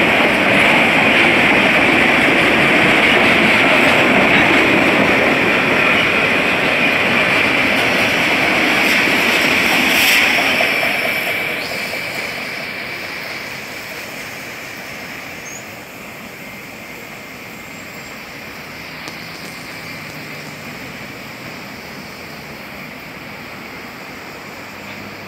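Freight train of autorack cars rolling past on the rails, loud and steady with a high-pitched tone over the wheel noise. About eleven seconds in the sound starts to fade as the end of the train passes and moves away.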